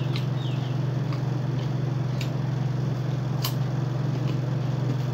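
Crunchy guava being chewed, with a few sharp clicks spread through, over a steady low hum.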